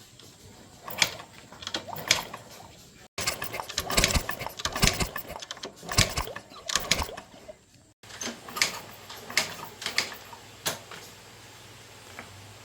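Irregular clicks and knocks of handling, in three stretches split by two abrupt cuts, busiest in the middle stretch.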